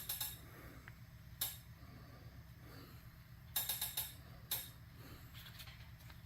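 Scattered sharp clicks and taps of small metal toy parts being handled: one at the start, one about a second and a half in, a quick run of several near the middle, then a few fainter ones, over a low steady hum.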